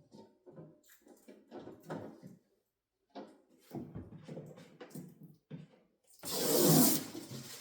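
Packaging being handled while a refrigerator is unpacked: irregular rustles and light knocks, then a louder rasping noise a little after six seconds in, lasting under a second.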